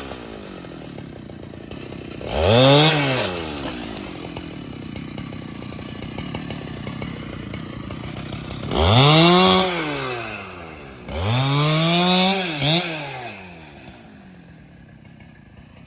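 Husqvarna 395XP two-stroke chainsaw revved three times, each rev rising in pitch and falling back, with a quick extra blip on the last one. Between revs it idles steadily.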